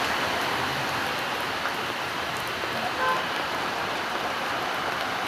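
Steady hiss of rain falling, with one brief short tone about three seconds in.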